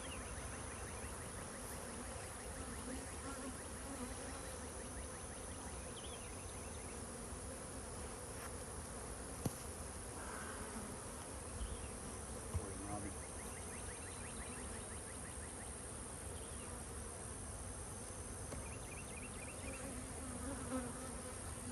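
Honeybees buzzing steadily around an open hive, with a couple of light clicks about halfway through.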